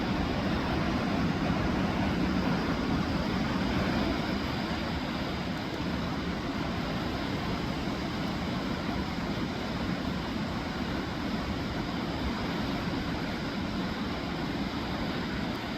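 Steady roar of a river in flood, rushing water with no breaks.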